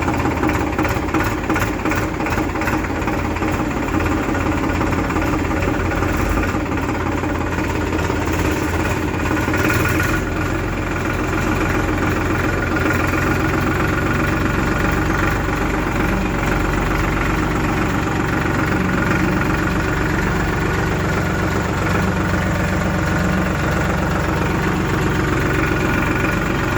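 Heavy diesel engine running steadily at an even, low speed, with a slight rise in its low rumble about ten seconds in.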